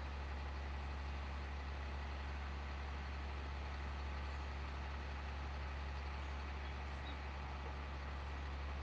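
Steady low drone of a vehicle engine idling, unchanging throughout.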